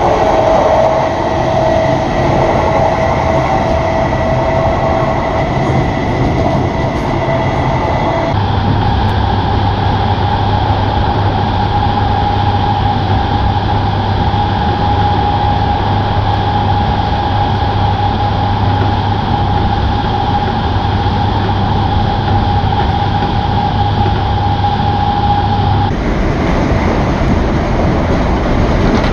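Class 321 electric multiple unit running at speed, heard from inside the passenger saloon: steady rolling noise with a steady whine. The sound changes abruptly twice, about a quarter of the way in and again near the end.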